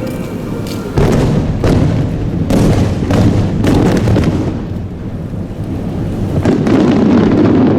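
Aerial firework shells bursting in a rapid series of booms. The first loud burst comes about a second in, further bursts follow at under-a-second intervals with rumbling echo between them, and there is another loud swell near the end.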